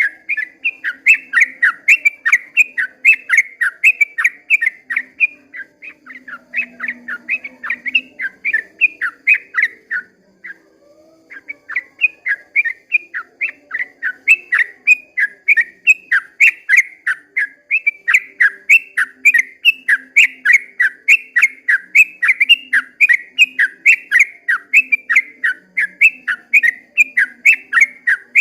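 Yellow-vented bulbul (trucukan) singing its long rapid song: a continuous stream of quick whistled notes, about three or four a second, with a brief pause about ten seconds in.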